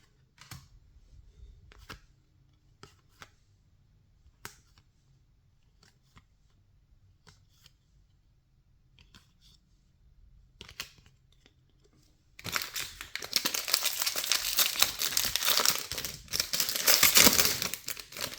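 Trading cards being handled, with faint scattered clicks as they are slid apart. About twelve seconds in, a trading-card pack wrapper is torn open and crinkled loudly until the end.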